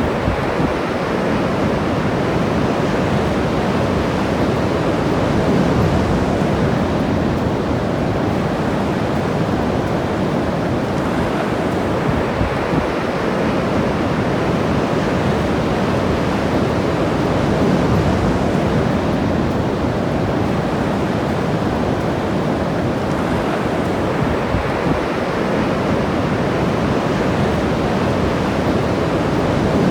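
Ocean surf washing onto the beach: a steady rush of waves that swells and eases gently over several seconds.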